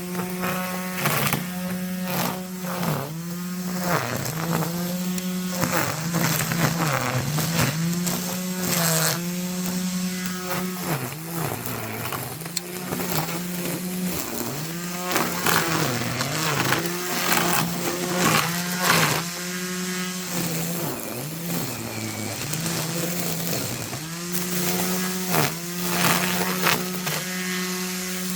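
Two-stroke brushcutter running at high revs, its pitch dipping briefly again and again as it bogs down cutting into the grass, with short swishing bursts as the cutting head strikes grass and debris.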